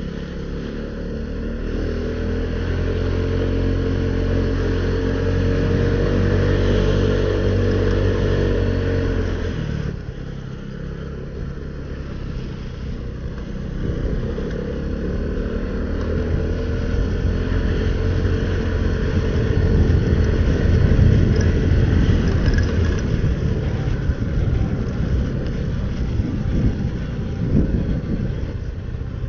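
Motorcycle engine pulling steadily up through the revs, backing off sharply about ten seconds in, then building again, with constant wind and wet-road noise heard through a helmet-mounted Sena 10C camera.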